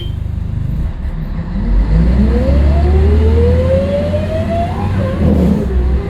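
Scania L113CRL bus pulling away under acceleration: a deep engine rumble with a whine that climbs steadily in pitch, then drops about five seconds in as the gearbox shifts up.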